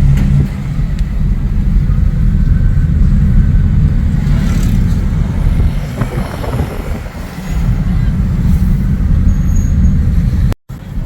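A moving car's steady low rumble of engine and road noise. It cuts out for a moment near the end.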